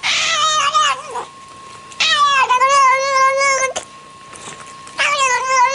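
An animal screaming in three long, wavering, high-pitched calls: one at the start, one about two seconds in, and one near the end. A faint steady tone runs underneath.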